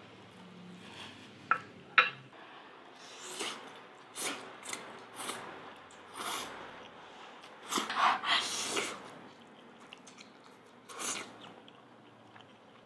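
Close-miked sounds of a person eating spicy noodles: a series of short, irregular slurping and mouth noises, loudest about eight seconds in, with two sharp clicks near the two-second mark.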